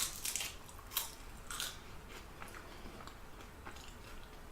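Close-miked mouth sounds of a person biting and chewing food: a few short wet, crunchy bites in the first two seconds, then quieter chewing.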